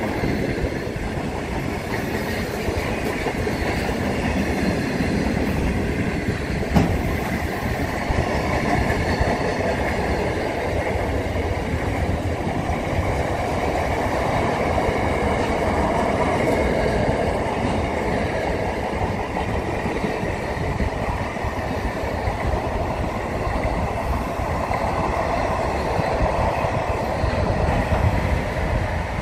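Container freight train's wagons rolling past close by: a steady rumble and clatter of steel wheels on the rails. A single sharp knock about seven seconds in.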